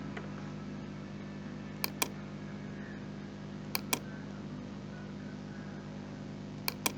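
Three computer-mouse double-clicks, each a pair of sharp clicks about a fifth of a second apart, spaced roughly two seconds apart, over a steady low electrical hum.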